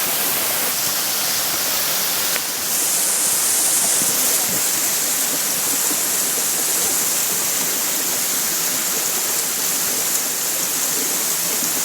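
Waterfall: a steady rush of water falling over rock.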